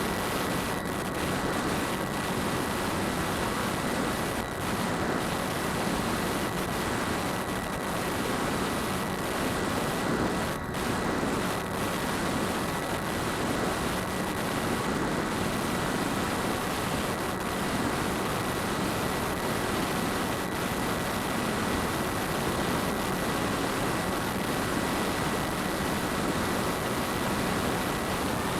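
Phantom quadcopter's motors and propellers running steadily in flight, heard through an onboard keychain camera as a constant rushing noise with a steady high whine.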